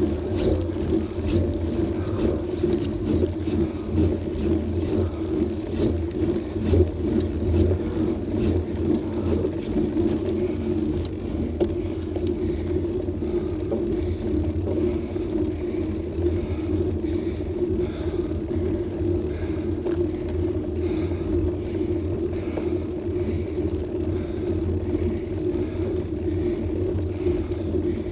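Steady low rumble of road and wind noise picked up by a bike-mounted action camera while riding, holding even throughout.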